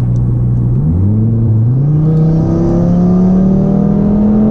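Audi TT RS's turbocharged five-cylinder engine through an EGO X exhaust with its valves open, accelerating: a steady tone that starts climbing in pitch about a second in and keeps rising. Really loud.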